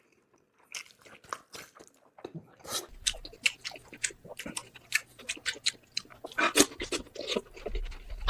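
A person chewing roasted pork head close to the microphone: a dense run of wet clicks and crunches from chewing, starting about a second in and cutting off suddenly at the end.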